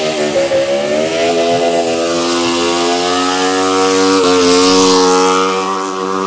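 Car engine held at high revs during a burnout, its pitch creeping upward, with a brief stumble about four seconds in and a dip near the end, over a rushing noise.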